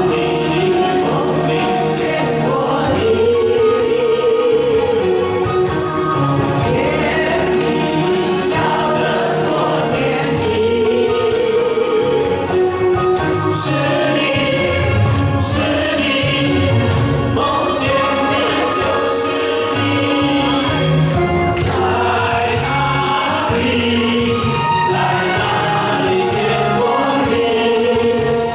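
Many voices singing a Mandarin pop song together in unison over a recorded backing track.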